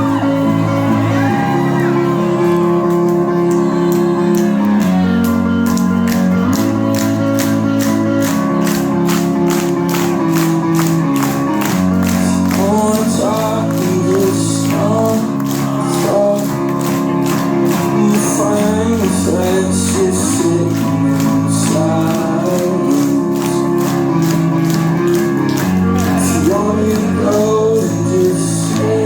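Live rock band playing at full volume: sustained guitar chords over a steady drum and cymbal beat that comes in a few seconds in, with a sung vocal line joining near the middle.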